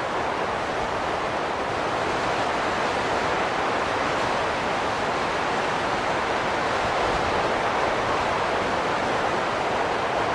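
Steady wind noise, swelling slightly a little past the middle.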